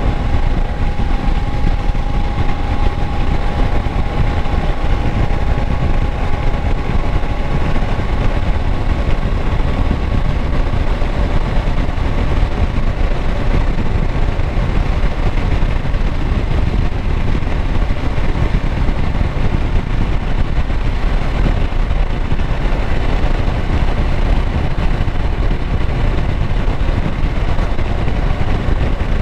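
Kawasaki Versys 650's 649 cc parallel-twin engine running steadily at an even speed. A faint high whine fades out about a third of the way in.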